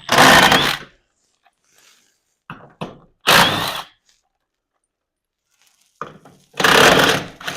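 Three short, loud bursts of tool noise on a steel garage door track and its mounting bracket as the track is worked loose to be raised, with a few fainter knocks between them.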